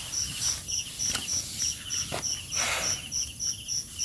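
Night insects chirping in a steady, even pulse about three to four times a second, with a fainter lower chirping underneath. There are a couple of faint clicks and a brief rustle about two-thirds of the way in.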